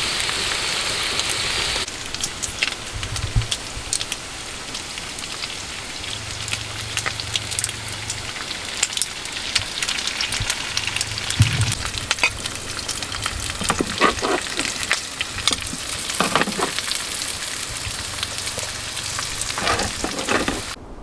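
Food frying in a pan: a steady hiss for about two seconds, then a crackling sizzle with many sharp pops and spits.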